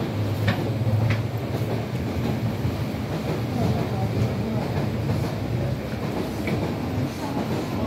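Steady low hum of an MTR East Rail Line R-train electric multiple unit, with two sharp clicks about half a second and a second in.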